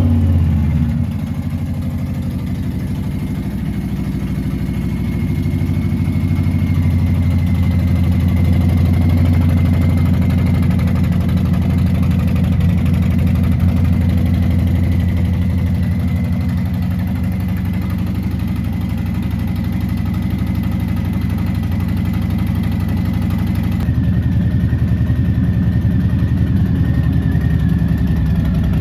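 2020 Harley-Davidson Softail Standard's Milwaukee-Eight V-twin engine idling steadily. It drops from a start-up flare about a second in.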